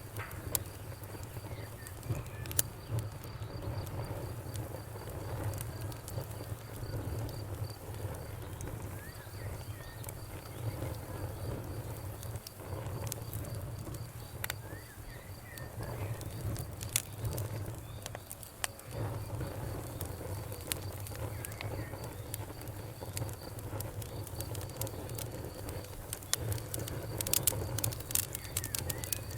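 Wood fire crackling over a low rumble, with sharp pops scattered throughout and a quick cluster of them near the end. A cricket chirps steadily, and birds give short calls now and then.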